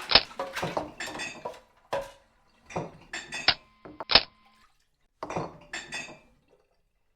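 Irregular clinks and knocks, some with a short metallic ring, in small clusters with brief silences between.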